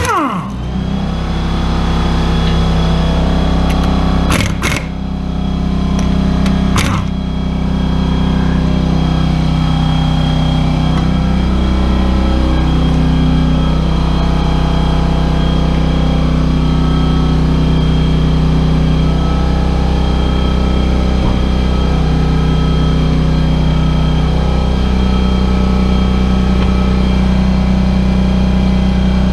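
Workshop air compressor starting up suddenly and running steadily with a low hum and a thin high whine. A few sharp knocks land about four and a half and seven seconds in.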